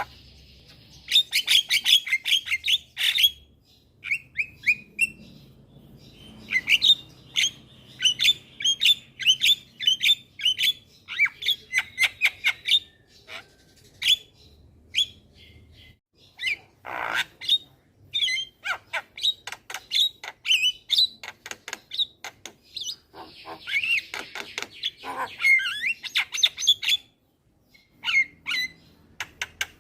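Javan myna singing energetically: rapid runs of sharp chirps and clicks mixed with harsh squawks, broken by a few short pauses.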